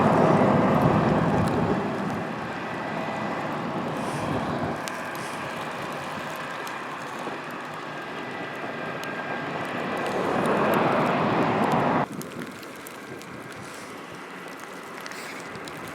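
Vehicles passing on a snowy interstate: tyre and engine noise on the slushy road swells and fades, then cuts off suddenly about twelve seconds in.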